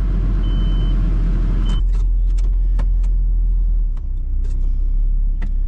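Pickup truck driving off through snow, heard from inside the cab: a steady low engine-and-road rumble, with scattered sharp clicks after about two seconds.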